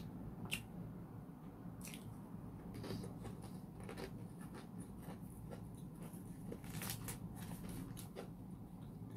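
A person chewing a crisp Hong Kong egg waffle close to the microphone, with irregular small crunches and mouth clicks.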